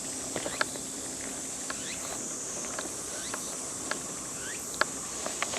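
Outdoor ambience: a steady high insect drone, with scattered faint clicks and a few short rising chirps.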